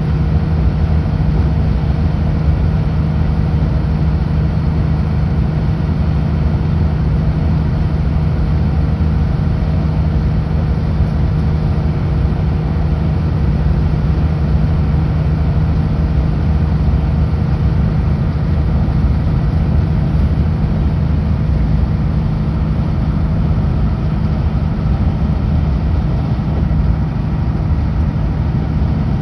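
Kenworth W900L semi truck's diesel engine running steadily at highway speed, a constant low drone mixed with road and wind noise.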